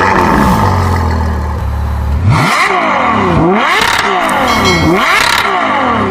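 Engine revving, loud, with a steady low drone for about two seconds. Its pitch then sweeps down and back up about every second and a half, and the sound cuts off abruptly at the end.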